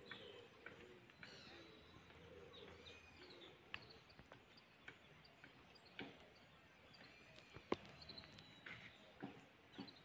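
Faint birds chirping against a quiet outdoor background, with a few scattered soft clicks, the sharpest about three-quarters of the way through.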